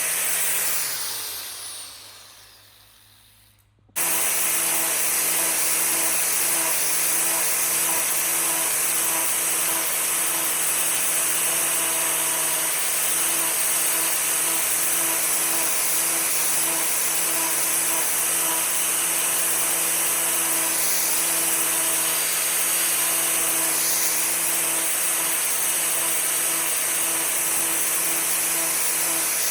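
Electric power tool motor, likely a sander or grinder, winding down at the start, silent for a couple of seconds, then running steadily at constant speed from about four seconds in with a steady hum and hiss.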